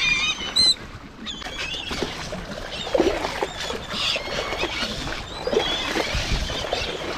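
Short, high squeaky bird calls, repeated on and off, over wet rustling and splashing of the catch in the net.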